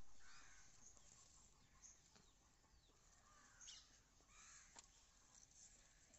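Faint birds calling in the background: a few short calls and chirps spaced out over a quiet outdoor hiss.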